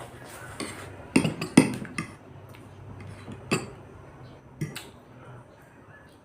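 Cutlery clinking against plates as people start to eat: a quick cluster of sharp clinks between one and two seconds in, then single clinks a second or so apart.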